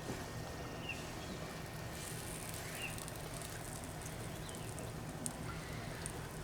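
Steady faint outdoor background hiss and hum, with a few short bird chirps.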